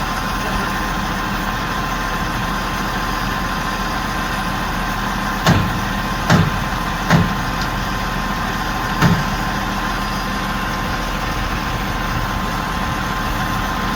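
Large crane engine running steadily with a constant hum, broken by four short thumps about halfway through.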